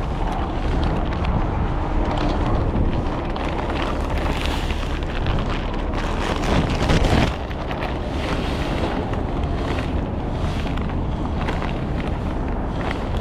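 Wind buffeting the microphone over a steady low vehicle rumble, with one gust-like swell that cuts off sharply about seven seconds in.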